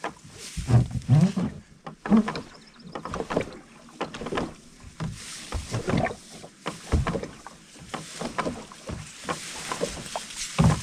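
Kayak being paddled through shallow water: irregular paddle splashes and knocks at an uneven pace.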